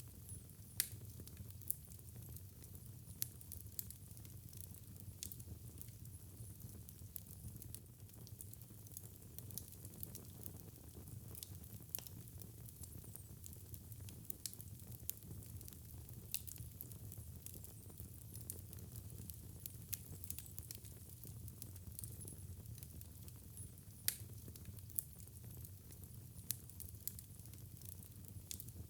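Wood fire burning in a fireplace: a low steady rumble of flames with irregular crackles and pops, and a few sharper snaps now and then.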